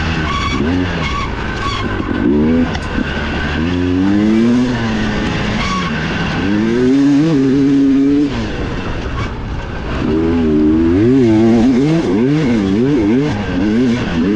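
Enduro dirt bike engine heard from on board, revving up and down again and again as the throttle is worked through the trail, with a few short holds at high revs.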